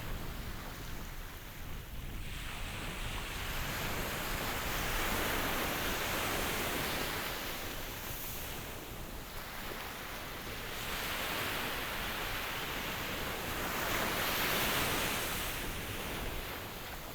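Ocean surf: a steady rush of waves that swells louder and eases back three times.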